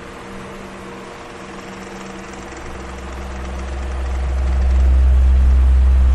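Electric fan running steadily: a whooshing hiss of moving air over a faint motor hum. A deep rumble swells up from about three seconds in and is loudest near the end.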